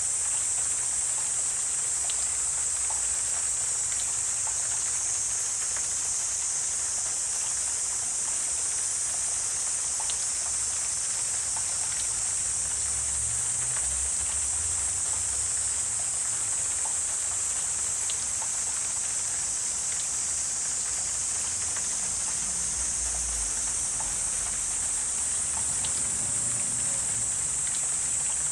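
Steady high-pitched insect chorus in a wetland, unbroken throughout, with faint scattered ticks and a low rumble that comes and goes.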